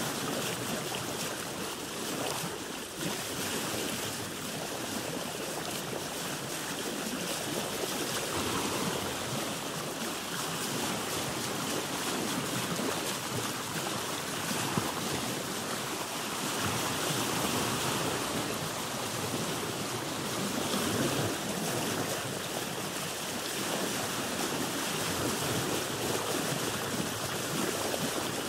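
Sea water splashing and washing against the hull of a boat, a steady rushing with slow swells in loudness.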